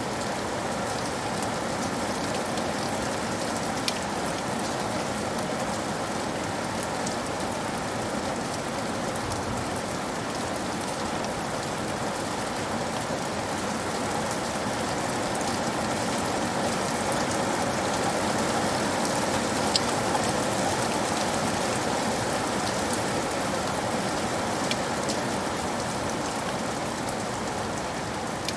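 Steady rain falling, with a dense patter of drops and now and then a single sharper drop tick.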